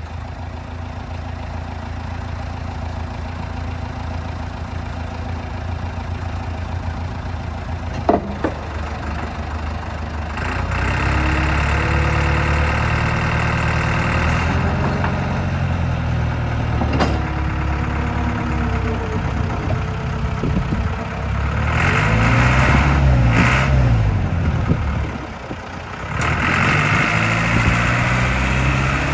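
The diesel engine of a 1987 Caterpillar 426 backhoe loader runs at a low steady speed for about ten seconds, with a sharp knock about eight seconds in. It then runs louder, its pitch rising and falling as it changes speed. It drops off briefly near the end before picking up again.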